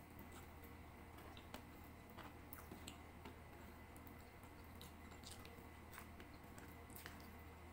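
Faint close-up chewing of rice and adobo chicken, with scattered small mouth and finger clicks, over a steady low hum.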